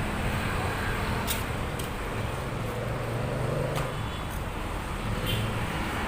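Steady motor-vehicle engine noise with a low hum, broken by a few sharp light clicks.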